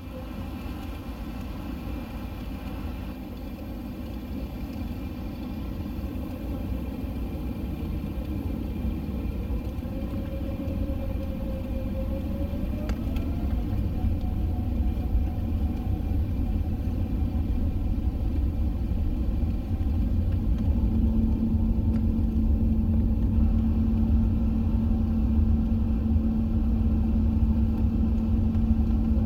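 Airbus A380 jet engines and runway rumble during the takeoff roll, a deep rumble building steadily louder as the aircraft accelerates. About halfway through an engine tone rises in pitch, and a steady hum joins near the end.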